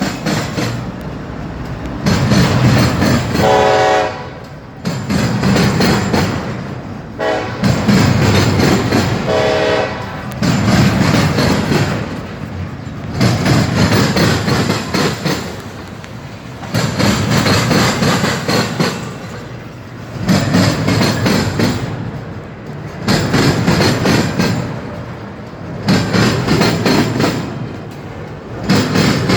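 Train passing with a rhythmic clatter of its cars, one loud pulse about every two and a half seconds. Three short horn blasts sound over it in the first ten seconds.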